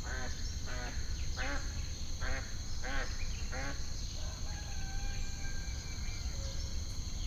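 Added nature ambience: a bird gives a run of about six pitched calls, evenly spaced, over the first four seconds, then a few thin whistled notes follow. Steady high insect trilling and a low rumble run underneath.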